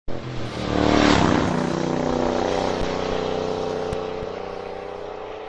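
Motorcycle engine running on the road with wind rush, loudest about a second in and then slowly fading.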